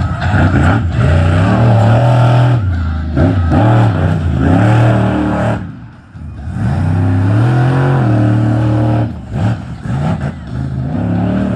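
Monster truck engine revving hard and dropping off again and again during a freestyle run. It falls away briefly about halfway through, then revs back up.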